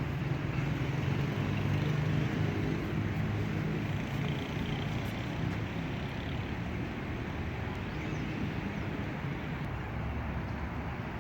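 Steady road-traffic rumble, loudest in the first few seconds and easing off after.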